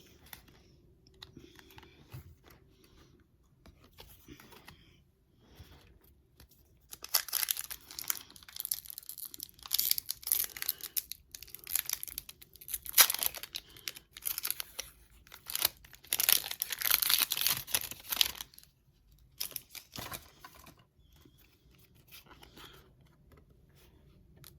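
Pokémon card booster pack's foil wrapper being crinkled and torn open, with soft handling sounds first and then a long run of loud crackling tears and rustles from about seven seconds in until about eighteen seconds, and one more short crinkle near the end.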